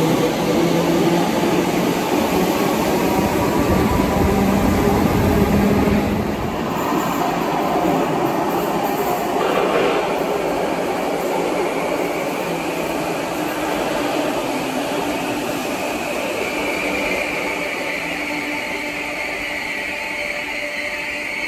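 Merseyrail electric trains in an underground station. First an electric unit runs along the platform with a low motor hum and rumble. Then Class 508 unit 508112 arrives from the tunnel, its wheels rumbling, and a high squeal comes in about three-quarters of the way through as it slows.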